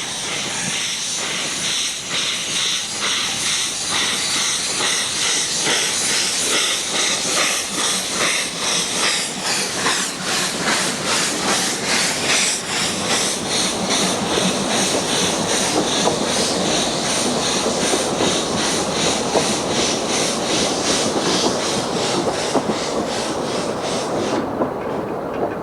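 A Swindon-built, GWR-style narrow-gauge steam tank locomotive of the Vale of Rheidol Railway pulling away. Its exhaust beats come in an even rhythm over a steady hiss of steam, and the high hiss drops away about a second before the end.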